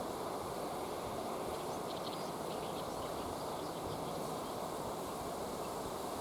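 Steady rush of flowing river water, with a few faint, short, high chirps near the middle.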